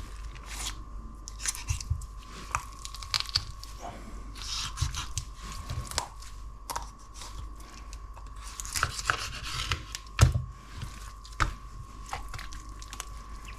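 Raw whole chicken being pulled apart at the joints by hand and knife: skin and flesh tearing and squelching, the blade scraping and tapping, in short irregular sounds with a sharper knock about ten seconds in.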